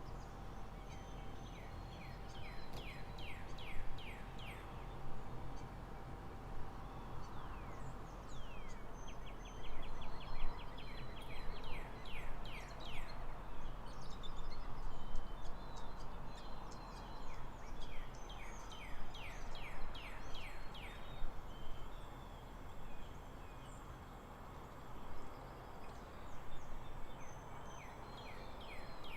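Steady background noise with songbirds trilling: runs of rapid, short falling chirps that come and go every few seconds.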